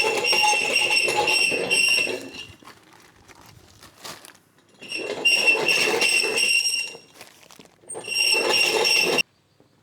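High-pitched whining power or air tool run in three bursts of a couple of seconds each, a steady shrill whine over a rushing noise; the last burst cuts off suddenly.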